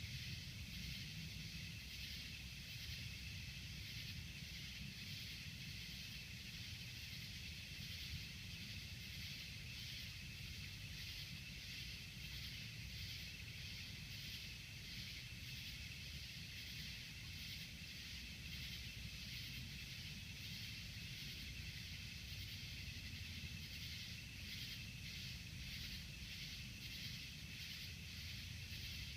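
Night insects chirping in a steady, pulsing rhythm over a steady low outdoor rumble; no thunderclap stands out.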